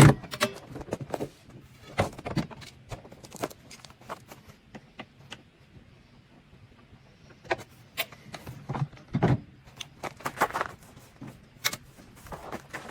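Irregular metallic clicks, taps and scrapes of flathead screwdrivers and keys being worked at a car's stuck ignition, with no engine running.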